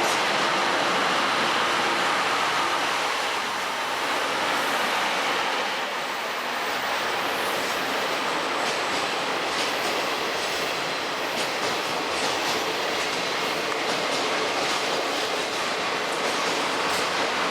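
Train running on rails: a steady rolling noise, with faint clicks of wheels over rail joints in the second half.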